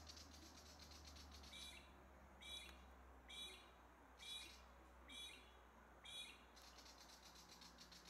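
Faint bird calls: a willie wagtail's rapid ticking scolding chatter at the start and again near the end, with six short harsh calls about a second apart in between.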